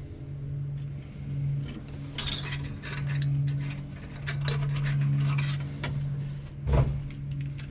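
Safety wire and safety-wire pliers being worked on an aircraft oil filter: a run of light metallic clicks and scrapes, with one sharper knock near the end, over a steady low hum.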